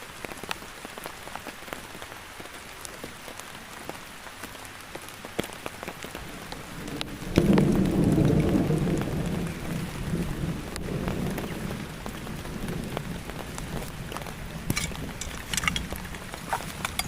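Heavy rain falling steadily, with individual drops ticking sharply. About seven seconds in, a loud, low rumble of thunder breaks in and rolls on, slowly easing.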